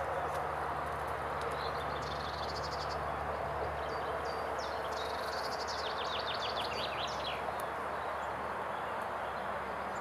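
Songbirds singing in a forest: short trills and chirps, and a quick series of falling notes a little past the middle, over a steady rushing background noise.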